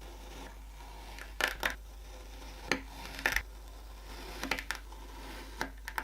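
Kinetic sand being handled, giving short, crisp crunching clicks in small clusters about once a second.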